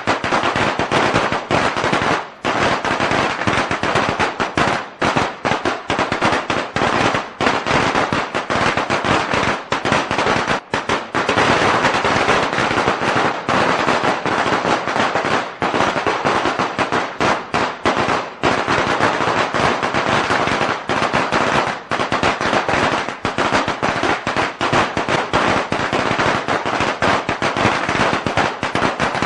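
A long string of firecrackers going off, a dense unbroken crackle of rapid bangs with no pause.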